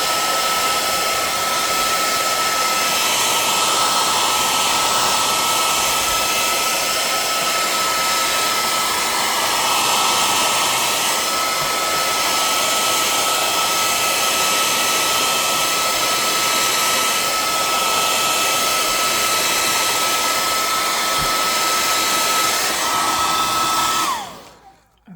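Handheld hair dryer running steadily: a loud hiss of blown air with a thin high motor whine. Near the end it is switched off and the whine drops in pitch as it spins down.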